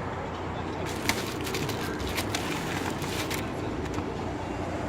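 A quick run of sharp clicks and light knocks, starting about a second in and lasting about two and a half seconds, over a steady low background rumble.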